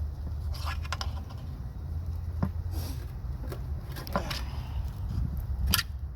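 Metal tools clinking and scraping as a pry bar is levered against a pulled engine to work a bolted part loose: about five sharp knocks scattered over a low steady rumble.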